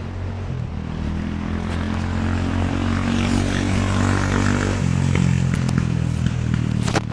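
An engine running steadily and slowly getting louder, its pitch stepping to a new level about five seconds in; it cuts off suddenly at the end.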